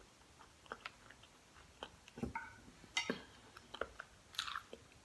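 A person chewing a mouthful of food with the mouth closed: soft, wet mouth clicks and smacks scattered irregularly through a quiet stretch.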